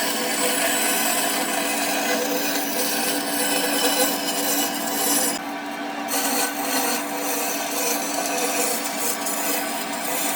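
A power tool running steadily against wood, a constant motor tone under a rough rasping. The rasping thins out briefly about five and a half seconds in, then comes back.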